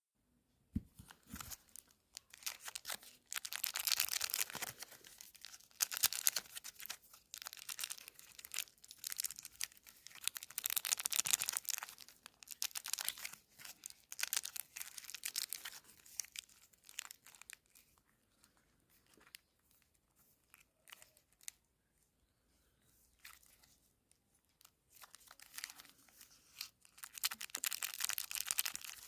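Chocolate bar wrappers being torn open and crinkled by hand, in irregular bursts of crackling and rustling. A quieter spell with only a few faint clicks comes in the latter part, before more rustling near the end.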